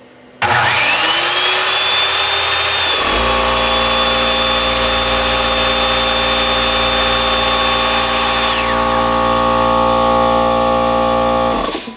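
Corded circular saw (Skilsaw) run off a 12 V 3000 W low-frequency inverter. The saw starts about half a second in with a rising whine as it spins up, then runs steadily, and stops just before the end. About three seconds in, a steady multi-tone hum joins. The saw is part of a load test that draws the battery current close to 300 amps.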